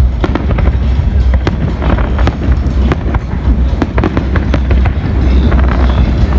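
Fireworks display: a rapid, irregular run of sharp bangs and crackles over a constant deep rumble.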